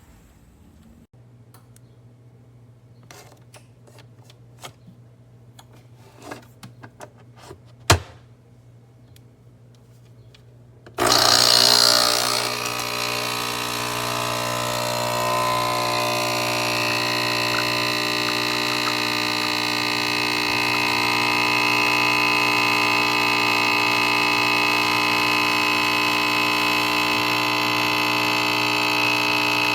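Pod coffee machine: a few light clicks and one sharp click over a low hum, then about eleven seconds in its pump starts with a loud, steady buzz as it brews.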